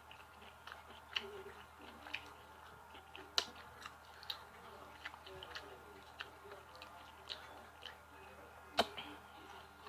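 Close-up chewing and crunching of fried food, with small irregular mouth clicks and two louder crunches, one about a third of the way in and one near the end.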